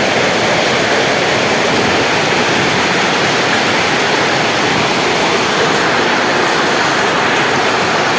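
Hail coming down heavily: a loud, steady, dense clatter of countless small impacts.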